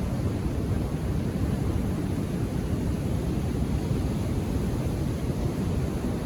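Ocean surf: a steady low rumble of waves, with no single break standing out.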